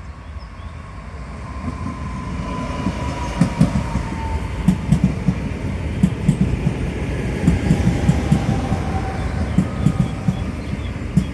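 SKM electric commuter train moving through the station, its rumble growing louder. From about three seconds in, the wheels knock in quick clusters over the rail joints, under a slowly falling whine.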